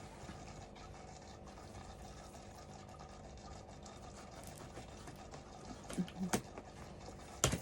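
Steady low room hum, then a few light clicks and knocks near the end and one sharper knock just before it: the new toaster oven being handled.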